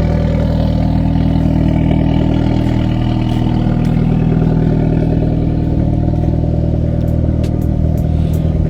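Hyundai Veloster N's 2.0-litre turbocharged four-cylinder idling steadily after a winter cold start, with a few light ticks near the end.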